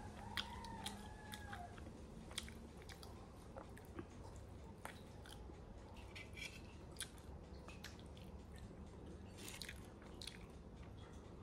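A person biting into and chewing a piece of baked pastry, close to the microphone, with many small scattered clicks and crunches from the mouth.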